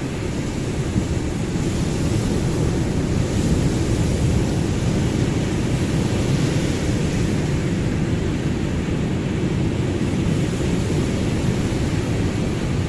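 Ocean waves: a steady deep rumble of surf with a higher hiss that swells and eases a couple of times.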